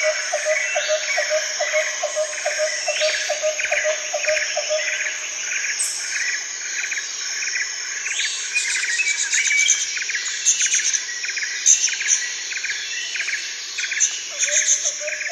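Birds chirping over a steady trilling of insects; a lower pulsing call repeats about three times a second and stops about five seconds in.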